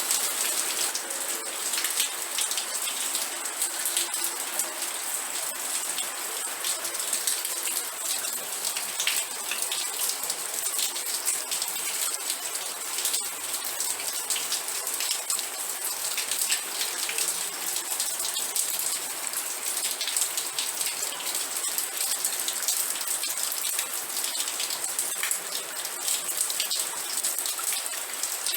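Steady rain falling, with many individual drops pattering on a surface over an even high hiss.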